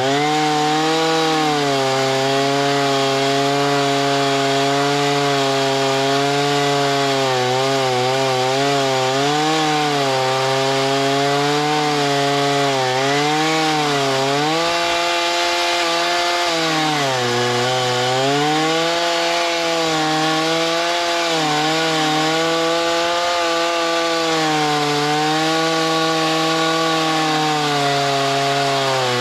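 Chainsaw running steadily under load as it cuts through wood, its engine pitch sagging and recovering several times, dipping deepest a little past the middle.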